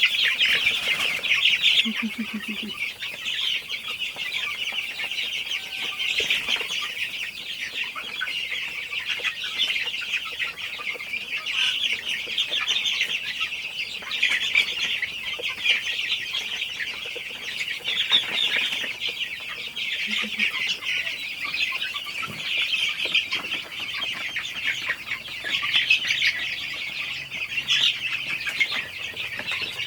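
A large flock of young chickens cheeping and clucking without a break, many high calls overlapping in a dense chorus.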